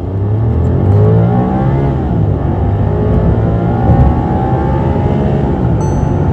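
Volkswagen Virtus engine running on a CNG conversion kit under full acceleration from a standstill. Its pitch climbs, drops back about two seconds in and again about four seconds in as it shifts up, then climbs again.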